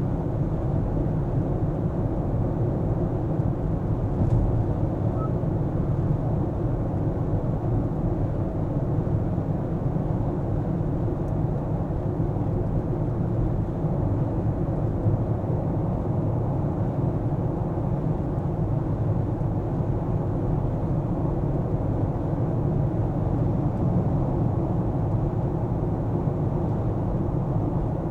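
Car driving: a steady low rumble of engine and tyre noise, even throughout, with a faint steady hum.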